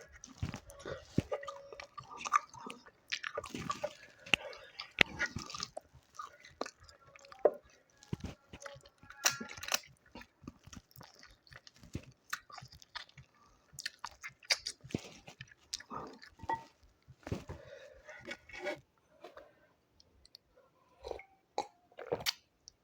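A person eating a meal of chicken curry and rice: irregular chewing and mouth sounds with occasional crunches, typical of bites of raw radish or onion.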